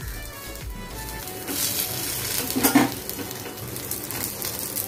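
A rolled frankie sizzling as it shallow-fries in a little oil on a flat tawa over a low flame. The sizzle swells after about a second and a half, and there is one short knock against the griddle about halfway through.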